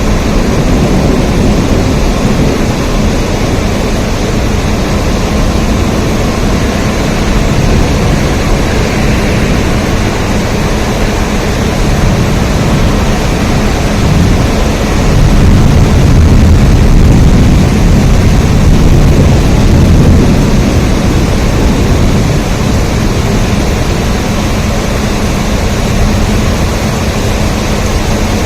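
Steady, loud rain noise. A deep low rumble swells for about five seconds in the middle, then eases back.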